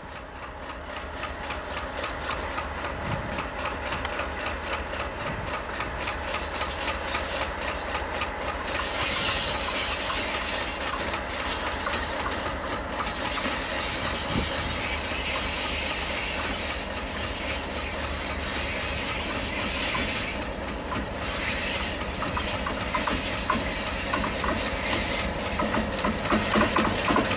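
Diesel locomotive hauling a passenger train, approaching and passing close: the engine running and growing steadily louder, with a loud hiss from about eight or nine seconds in, and louder again near the end as the locomotive draws alongside.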